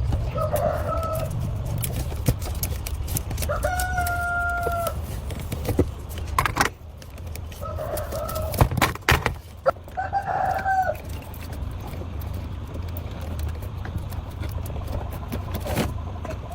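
A rooster crowing about four times, one crow long and held, over a steady low rumble, with several sharp knocks in between.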